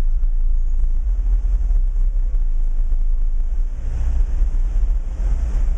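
Two FI Audio Team 15-inch subwoofers in a car playing deep bass very loud, a steady low rumble that buffets the microphone.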